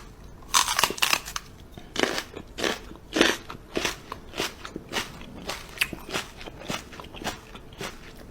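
Crunchy food being chewed noisily, with steady crunches about twice a second.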